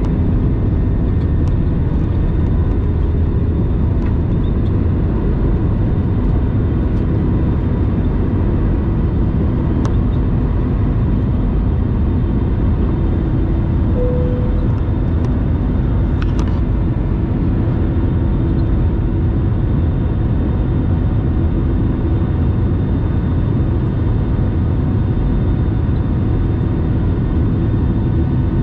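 Steady engine and airflow rumble of an Airbus A320, heard from inside the passenger cabin, with a few faint clicks.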